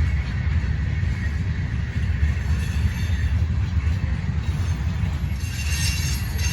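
CSX train rolling past with a steady low rumble of its cars on the track.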